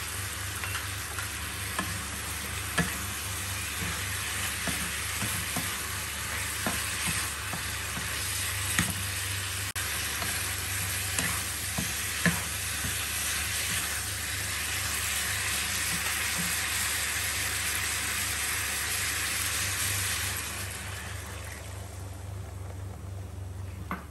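Pork ribs sizzling as they are stir-fried in a nonstick pan, with the spatula scraping and now and then knocking sharply against the pan. The sizzle drops away near the end.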